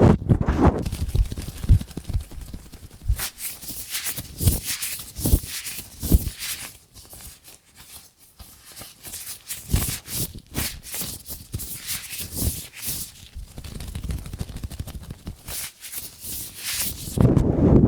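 Latex gloves rubbed, stretched and handled close to a microphone: irregular crinkly rubbing and soft knocks, louder near the end.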